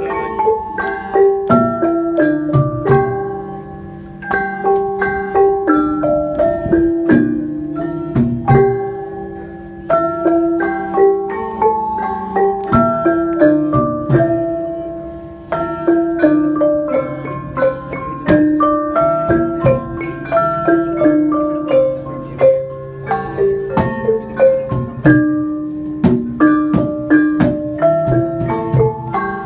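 Malay gamelan ensemble played by beginners: a steady stream of mallet-struck, ringing metal notes over deeper, longer-held tones.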